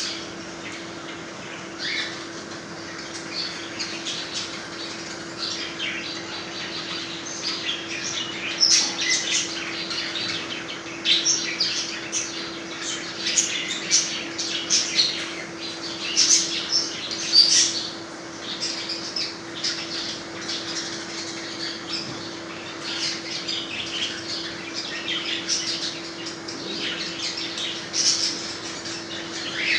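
A flock of budgerigars chattering: many short, sharp squawks and chirps overlapping, busiest in the middle, over a steady low hum.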